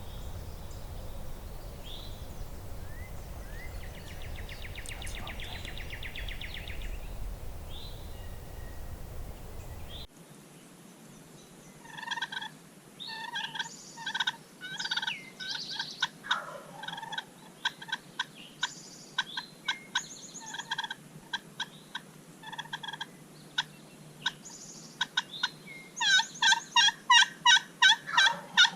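Wild turkey calling: scattered short, sharp calls, then a loud rapid run of about a dozen notes near the end. Before the calls, a steady low rumble with faint songbird chirps.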